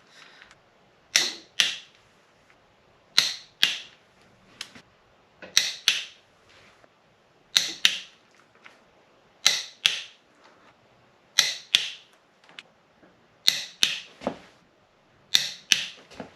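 Torque wrench clicking as the cylinder head bolts of a 6.0 LS V8 are pulled to 80 foot-pounds on the final pass: sharp clicks in pairs, about one pair every two seconds.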